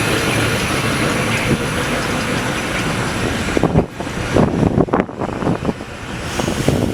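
Steam locomotive drawing into a platform: a steady rushing hiss that drops away about four seconds in, giving way to irregular short knocks and gusts.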